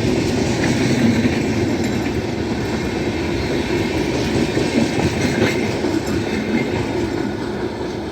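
Passenger train rolling past at speed, a steady rumble and rattle of coaches on the track, slowly getting quieter toward the end.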